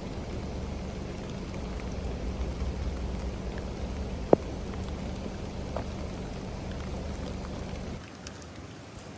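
Rain falling steadily, a dense even patter, with one sharp tap about four seconds in that is the loudest sound. The low rumble underneath drops away suddenly near the end.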